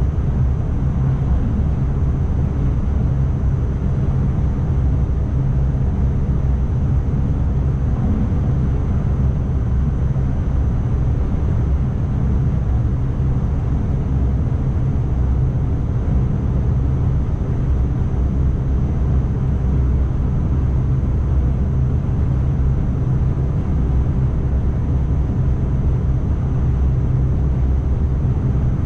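Steady low rumble of an ICMm electric multiple unit running along the track, heard from inside the driver's cab, with a thin steady high whine.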